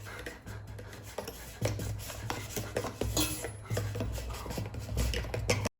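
Scattered light clicks and rubbing noises over a low hum, cutting off suddenly near the end.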